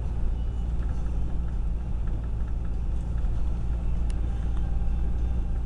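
Car's engine and road noise inside the cabin: a steady low rumble.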